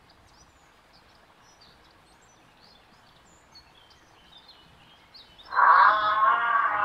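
Faint bird chirps over quiet outdoor ambience. About five and a half seconds in, a loud, sustained pitched sound with a wavering tone cuts in and holds to the end.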